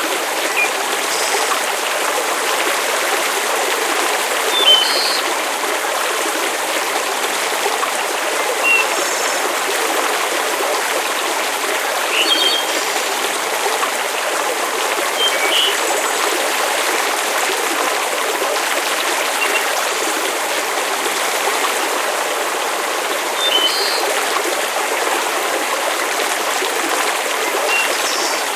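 Steady rushing water noise, with short high-pitched ticks every few seconds.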